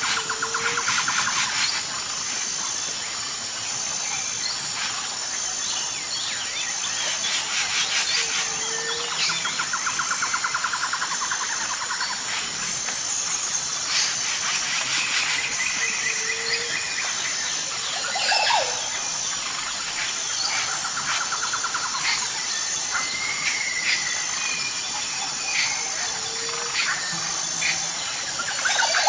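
Wild birds calling and trilling over a steady, high-pitched insect drone, with short rapid trills recurring every few seconds.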